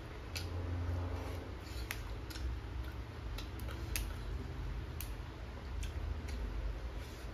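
Close-up eating sounds: a person chewing with scattered sharp, wet mouth clicks and smacks at irregular intervals, over a low rumble.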